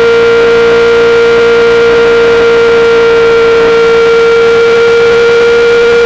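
2008 Yamaha R6 inline-four running through a full SC-Project exhaust, held at steady revs with one strong constant pitch that creeps slightly higher near the end.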